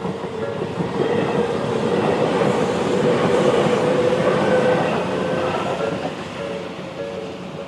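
A Tobu 20400 series electric train passing through a level crossing, its wheels clattering over the rails. It grows loudest in the middle and fades away. Over it the crossing's electronic warning bell keeps ringing its slow repeated chime, heard most plainly near the start and the end.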